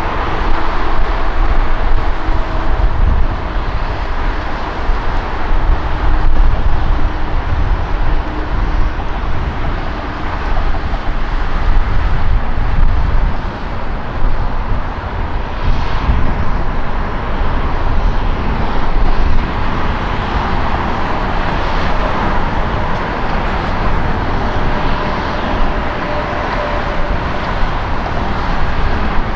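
Jet airliner engines heard from beside the runway: a loud, steady rushing noise with a deep rumble underneath that swells and eases for the whole stretch.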